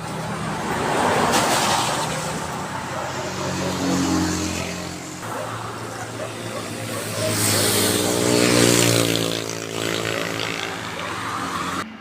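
Motorcycle engine running and being revved, its pitch rising and falling a few times, with the biggest rev about two-thirds of the way through.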